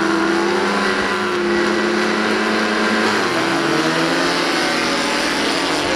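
Several bilcross cars' engines held at high revs together on the start grid, waiting for the start. Their tones run steady, and some shift in pitch about halfway through.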